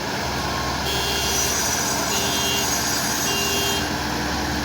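Diesel engine of heavy farm machinery running steadily, with a high-pitched whine that comes and goes in the middle.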